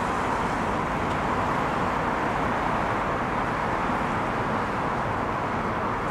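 Steady rolling noise from a DR1A diesel multiple unit and its track measurement car running along the track.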